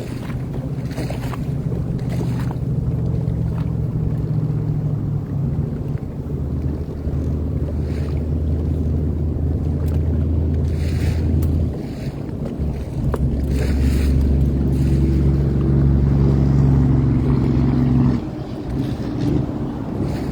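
Sea-Doo Fish Pro personal watercraft engine running steadily under way, with wind buffeting the microphone. The engine note shifts about six seconds in, dips briefly around twelve seconds, and drops lower near the end.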